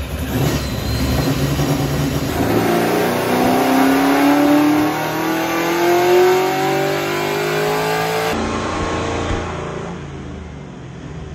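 Fox-body Ford Mustang 5.0 V8 making a wide-open-throttle pull on a chassis dyno: the engine note climbs steadily in pitch for about six seconds, then cuts off abruptly when the throttle is lifted, about eight seconds in, and the engine falls back to a lower, fading run.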